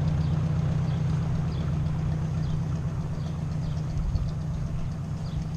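Ford 600 tractor's four-cylinder gasoline engine idling steadily as it warms up just after starting.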